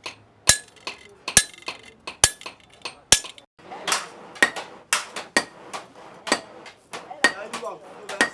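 Blacksmith's hammer striking metal on an anvil with a ringing clang, steady strokes a little under one a second, quickening to about two a second from about halfway.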